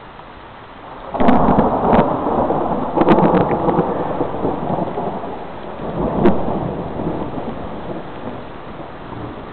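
Close thunder over steady rain: a sudden crack about a second in with sharp crackles, then a long rolling rumble that swells again around six seconds in and slowly fades.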